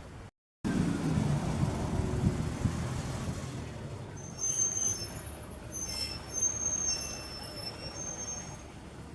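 Road traffic: after a brief cut, a vehicle rumbles past and fades, followed by several short, high, thin squeals.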